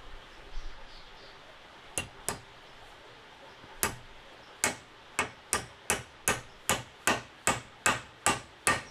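Hammering: a few scattered sharp blows, then from about halfway in a steady run of strikes about two and a half a second.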